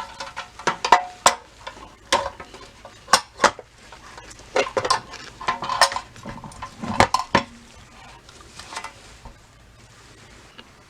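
Irregular metal clinks and clatter, some with a short ring, as small metal parts are handled and knocked together; they thin out after about seven seconds.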